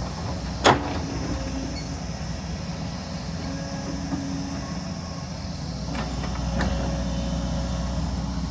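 Excavator's diesel engine running steadily under a low hum, with one sharp, loud clank less than a second in and a few fainter knocks near the end.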